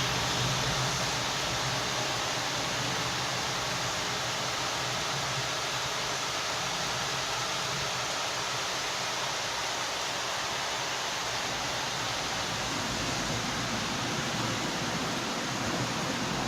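Steady heavy rainfall, an even hiss of rain coming down.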